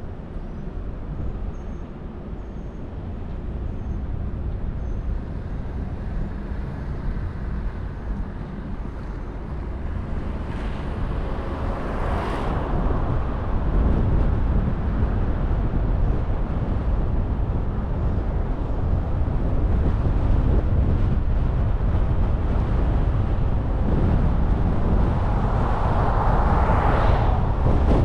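Car driving on a road, with steady tyre and wind noise that grows louder as it picks up speed. Other vehicles whoosh past twice, about twelve seconds in and again near the end.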